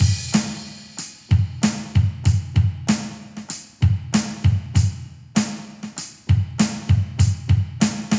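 Drum kit playing a steady beat of kick, snare and hi-hat, opening on a cymbal crash.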